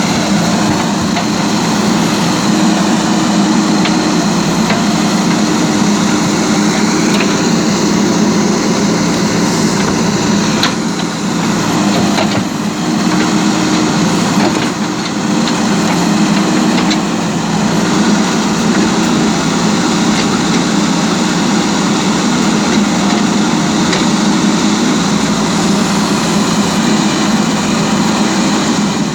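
JCB 3DX backhoe loader's diesel engine running steadily, with a few sharp knocks and clanks from the machine as it crosses rough ground; the engine eases off briefly a little before halfway.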